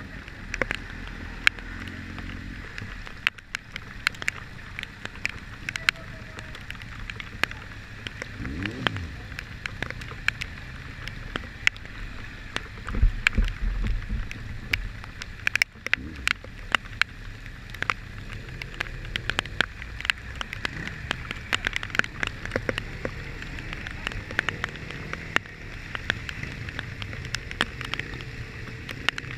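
Rain falling, with many scattered drops tapping sharply close by, over the low steady rumble of a vehicle on the move; the rumble swells briefly about halfway through.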